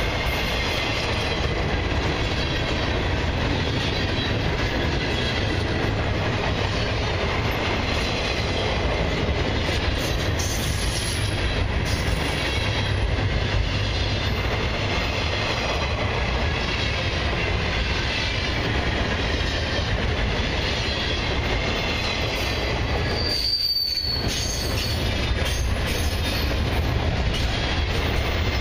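The cars of a long intermodal freight train rolling past: a steady rumble of steel wheels on the rails, with faint high wheel squeal. A short high squeal comes about 23 seconds in.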